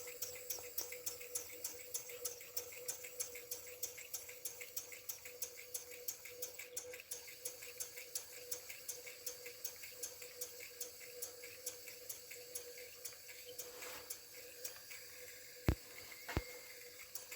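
IND-X electric toy steam engine running on steam after its heater has been unplugged, chuffing with an even beat of several exhaust puffs a second that eases slightly as the boiler pressure falls. Two sharp knocks sound near the end.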